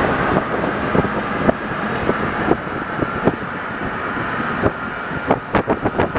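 Rubber-tyred NS-74 metro train running along the track: a steady rumble with irregular sharp clicks and knocks that come more often near the end.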